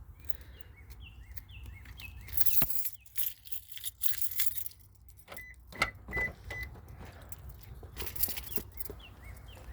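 Car keys jangling and a car door clunking as someone gets into a car, with four short electronic beeps from the car about halfway through. Birds chirp throughout.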